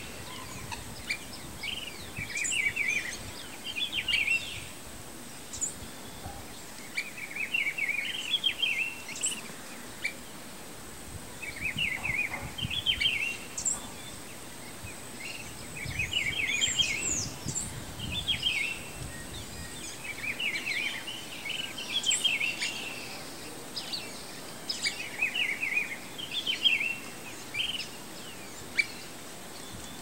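Small birds chirping: short clusters of quick, high chirping notes repeat every couple of seconds throughout, over a faint steady high-pitched tone.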